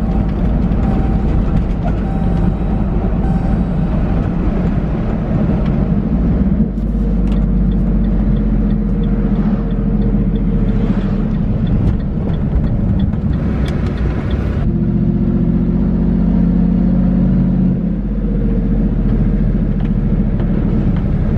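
A motor vehicle running, loud and steady, with abrupt shifts in its sound about 7 and 15 seconds in.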